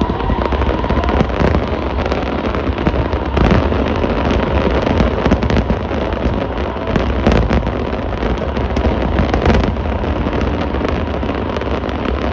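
Aerial fireworks bursting in quick succession, a dense run of sharp bangs and crackles over a steady low rumble.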